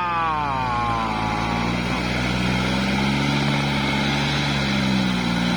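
Kubota tractor's diesel engine running steadily under load while rotary tilling, its pitch swelling slightly about halfway through. Over the first two seconds a drawn-out falling 'waaa' exclamation from a man tails off over the engine.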